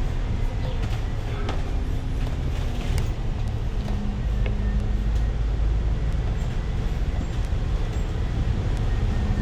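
A city bus in motion heard from inside the passenger cabin: steady low engine and road rumble, with a few light rattles and clicks a couple of seconds in.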